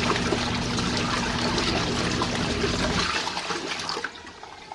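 Water rushing into an RV washing machine's drum as it fills for the rinse cycle, over a steady low hum. The hum stops about three seconds in, and the rush of water dies away about a second later.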